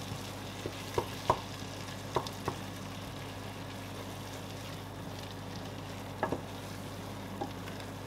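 Blended egusi seed frying in palm oil in a stainless steel pot, a steady sizzle, while a wooden spatula stirs it and knocks against the pot several times in the first three seconds and again around six seconds in.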